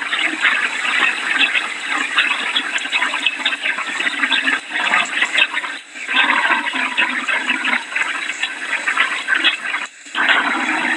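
Heavy rain pouring and splashing in a dense, crackling hiss of water, from a hurricane rain band. It eases off briefly twice, about six and ten seconds in.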